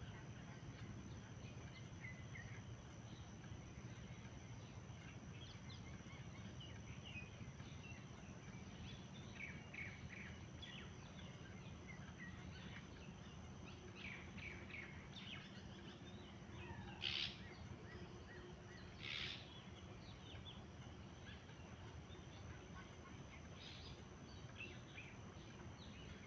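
Wild birds chirping and calling: many short high chirps scattered throughout, with two louder calls a couple of seconds apart past the middle. Faint, over a steady low background rumble.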